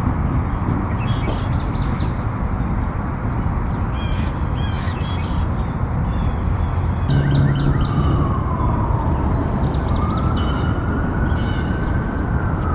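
Small birds chirping over a steady rushing background. A little past halfway an emergency-vehicle siren starts wailing, its pitch sliding down, back up and down again.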